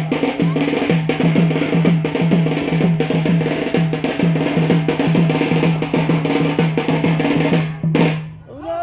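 Drumming for the Yemeni bara' dance: a fast, even rhythm of sharp stick strokes over a repeating low pitched drum thud, cutting off suddenly about eight seconds in.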